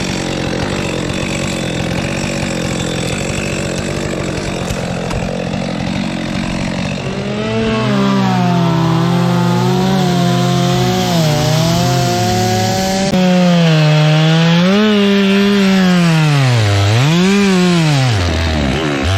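Chainsaw cutting through wood. After about seven seconds the engine note swings up and down as the chain bites, and near the end it sags twice, sharply, under load.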